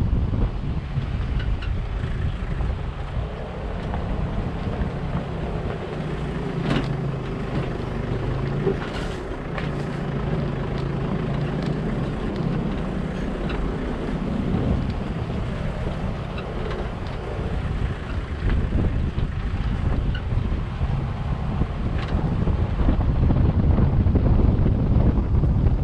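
Wind buffeting the microphone, with a vehicle engine running steadily underneath as a low hum.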